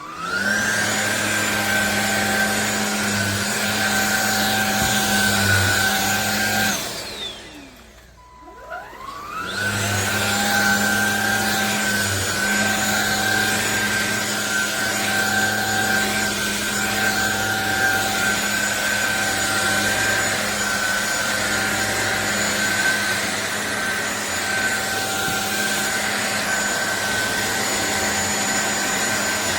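Cordless stick vacuum cleaner motor spinning up with a rising whine and running steadily. About a quarter of the way in it winds down and stops. Two seconds later it spins up again and runs on.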